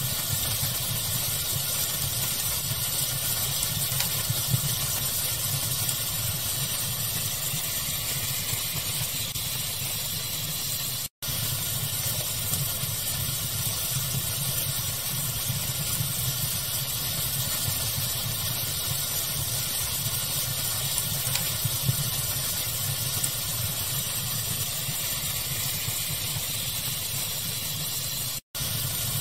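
Steady hiss of a fire ambience mixed with pink noise, with a low rumble underneath and a few faint crackles. The sound cuts out for an instant twice.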